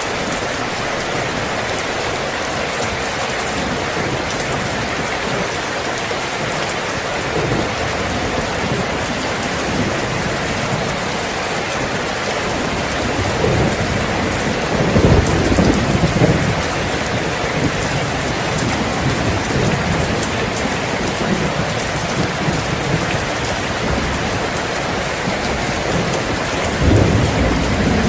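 Steady heavy rain falling, with low rolling thunder rumbling in about halfway through and again near the end.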